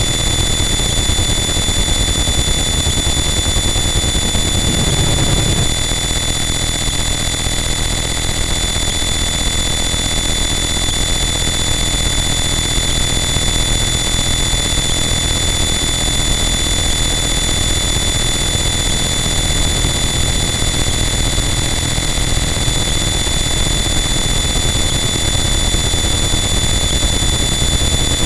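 Harsh noise wall: a loud, unchanging wall of dense distorted noise, with steady high-pitched whine tones sitting on top of it and a brief low swell about five seconds in.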